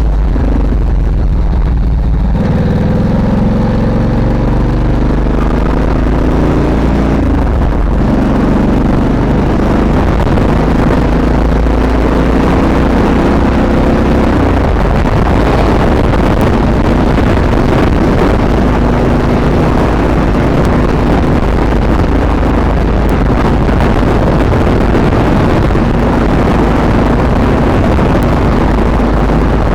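Ducati Monster S2R's air-cooled L-twin engine under way, the motorcycle accelerating with the engine pitch rising in steps through the gears, then cruising at a steadier pitch with wind rushing over the microphone.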